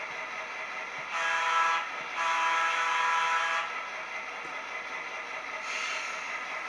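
Model EMD FP7 diesel locomotive's horn sounding twice, a short blast and then a longer one, over a steady running hiss.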